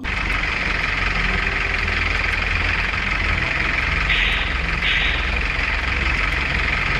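A vehicle engine idling steadily, with a low rumble and a hiss over it.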